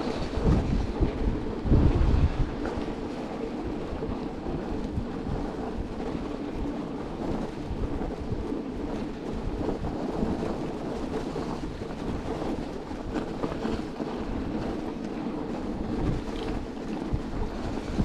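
Wind buffeting the camera microphone with steady riding noise from an electric bike moving through snow; the low rumble is heaviest in the first couple of seconds, then settles into an even rushing noise.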